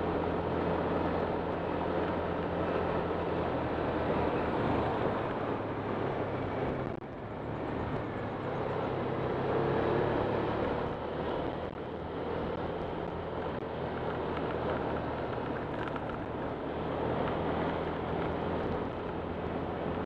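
Honda Click 125 scooter's single-cylinder engine running steadily under way, with wind and road noise. The engine eases off briefly about seven seconds in, then pulls on again.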